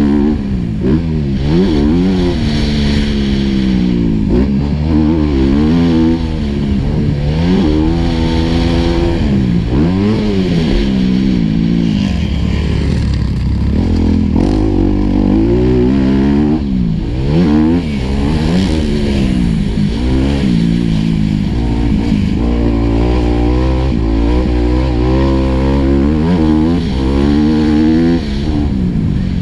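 Single-cylinder four-stroke motocross bike engine heard on board, revving up and shutting off over and over, its pitch climbing and dropping every second or two as the rider accelerates and brakes around a dirt track.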